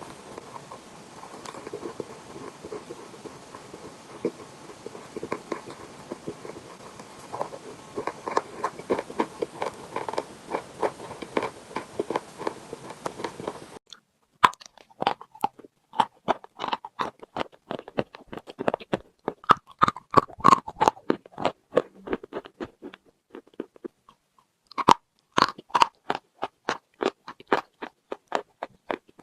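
Close-miked crunching and chewing of chalk: rapid sharp bites and crunches in uneven runs. A steady background hiss drops out suddenly about 14 s in, and the crunching pauses for about two seconds a few seconds before the end.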